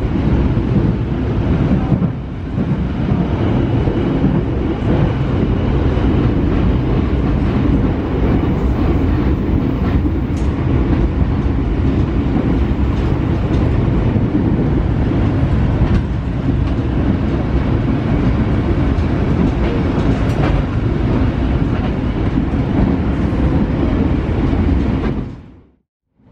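KA Joglosemarkerto passenger train running along the track, a steady rumbling rail noise that cuts out abruptly near the end.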